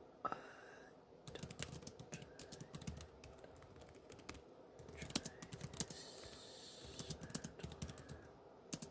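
Typing on a computer keyboard: quick runs of key clicks with short pauses between, typing a search.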